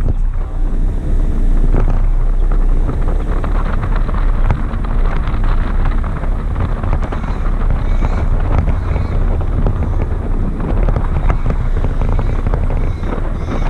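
Heavy wind buffeting a GoPro's microphone on the roof of a moving car: a loud, steady low rumble of rushing air with road noise.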